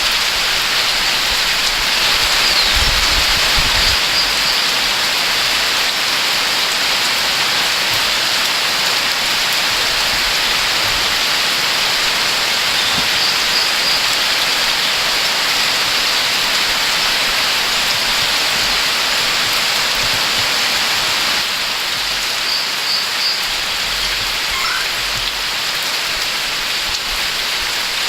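Steady loud rush of a flooded creek, springs and waterfalls, with rain. A small bird chirps a short run of notes three times over the water.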